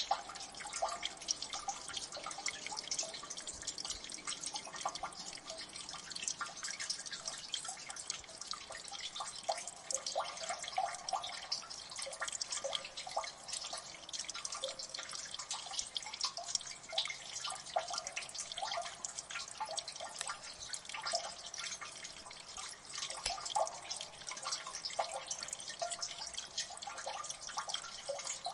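Water dripping in a gully: many rapid, irregular drips plinking into water over a steady background wash of running water.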